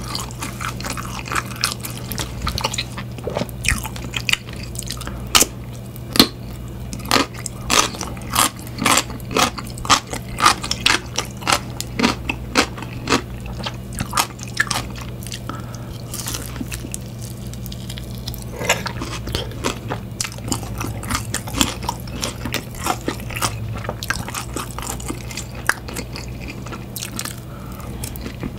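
Close-miked biting and chewing of crunchy food, pickled yellow radish and crispy battered fried pork (tangsuyuk), with sharp crunches coming in quick succession and a short lull about two-thirds through.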